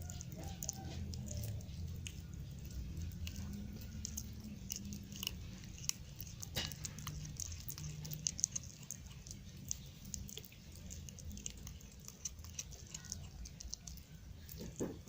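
Kitten chewing and crunching a dead mouse, with many small wet crunches and clicks in an uneven run.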